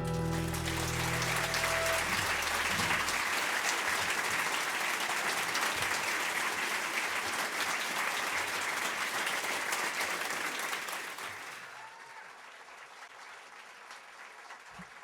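Audience applauding as the band's final chord rings out and fades over the first few seconds; the applause dies away about eleven seconds in.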